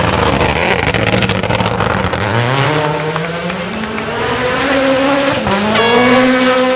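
Rally car engine accelerating hard, its pitch climbing through the revs with a quick gear change about five seconds in, then rising again. Noisy tyre and gravel sound runs under the engine in the first couple of seconds.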